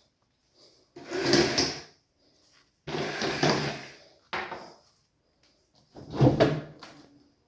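Drawers being slid open and shut by their handles, several separate slides of about a second each.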